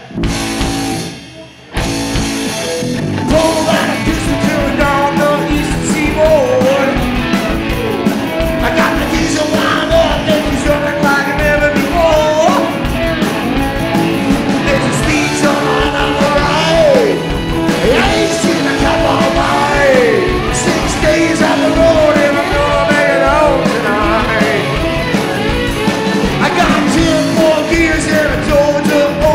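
Live rock band playing loud: after a brief gap, the full band comes in together about two seconds in and plays on steadily, with gliding, sliding notes over the drums.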